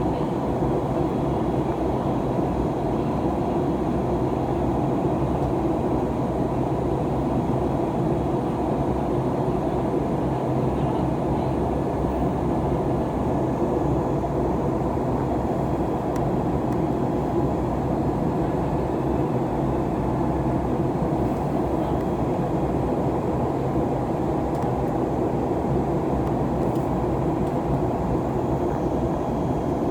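Steady cabin noise of an Airbus A321neo with Pratt & Whitney PW1100G engines in flight: an even, loud roar of engines and airflow that does not change.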